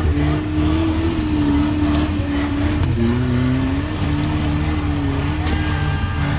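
Rock-crawling rig's engine working under load as it climbs over rocks, its revs rising and falling in short surges.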